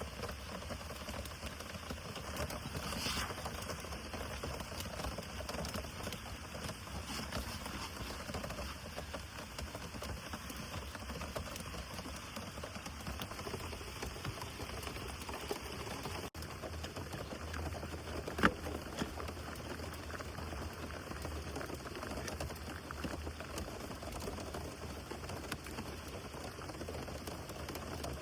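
Steady rain pattering down in a dense, even crackle of drops. A single sharp tap of a heavier impact stands out about two-thirds of the way through.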